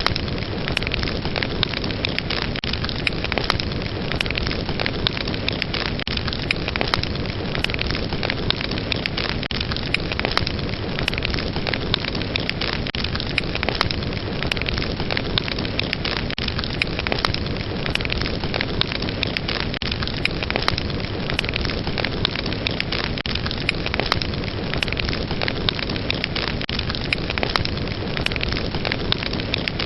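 Fireplace fire crackling steadily: many sharp pops and snaps scattered over a constant dense hiss of flame.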